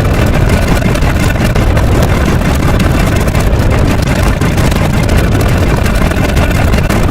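Loud, steady low rumble that continues without a break.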